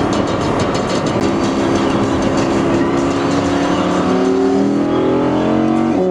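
Audi R8 engine under hard acceleration, heard from inside the cabin: the engine note holds steady, then climbs in pitch as the revs rise, and drops suddenly at the very end with an upshift.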